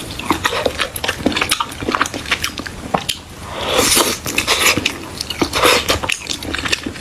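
Close-miked chewing and biting, with wet mouth clicks and smacks coming irregularly.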